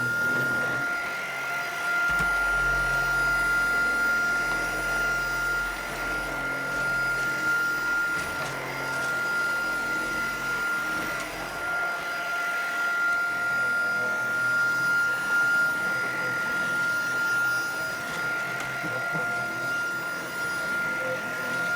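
Tineco cordless stick vacuum running, a steady high-pitched whine, with a lower hum from about two seconds in until about twelve seconds in.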